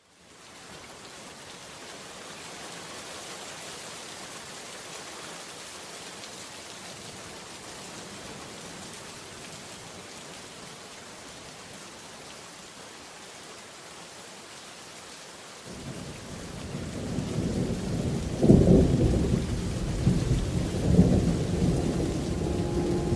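Steady rain falling, fading in at the start. About two-thirds through, a deep rolling rumble of thunder comes in and swells twice to its loudest near the end.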